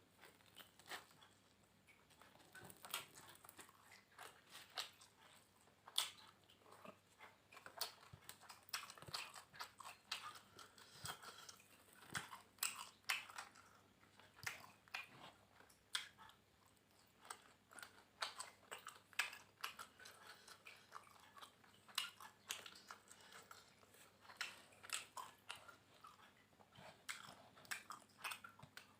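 Close-up chewing and crunching of crispy fried catfish and raw vegetables: faint, irregular crisp crunches, several a second.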